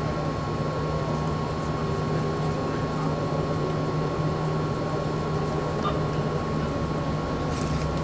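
Steady low mechanical hum of an idling vehicle engine with street noise, and a thin steady whine above it. A couple of faint clicks come near the end.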